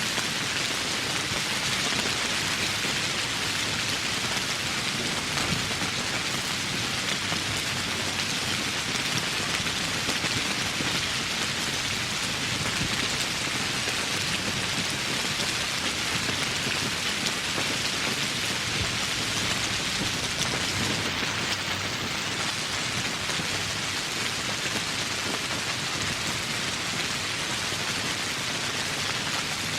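Steady heavy rain falling, with a dense patter of drops.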